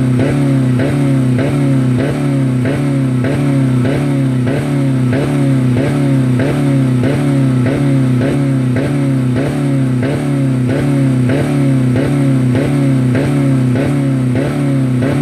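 2000 Dodge Neon's 2.0 L four-cylinder engine held at full throttle against its rev limiter, the revs rising and cutting back two to three times a second in a steady stutter. It is running with no oil or coolant left in it.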